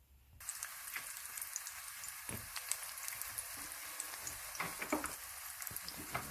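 A pan sizzling on the stove: a steady frying hiss with frequent sharp crackles and pops, starting abruptly about half a second in.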